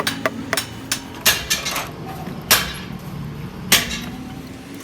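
Irregular sharp metallic knocks and clinks of hand tools striking and handling engine parts, the loudest about two and a half and nearly four seconds in, over a low steady hum.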